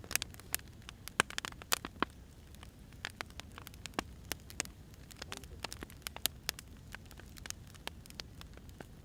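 Burning firewood crackling, with irregular sharp pops and snaps over a low, steady hiss.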